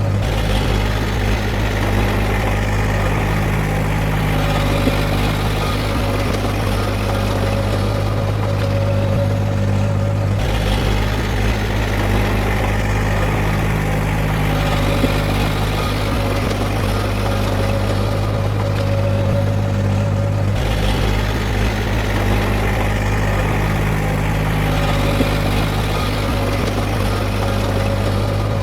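Heavy diesel engine of earthmoving machinery running steadily with a deep, even drone. The sound shifts abruptly about ten and twenty seconds in.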